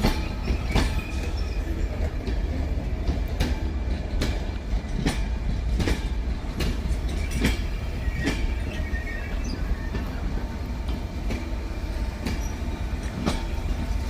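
Mark IV passenger train rolling slowly through the station, its wheels clicking irregularly over rail joints and pointwork above a steady rumble, with faint wheel squeal.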